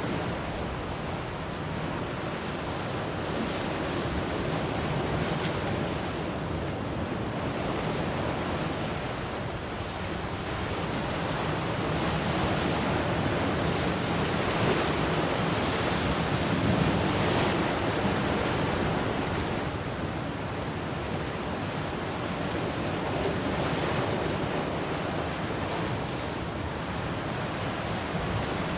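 Ocean surf washing ashore, a continuous rush of water that swells and eases gently every few seconds.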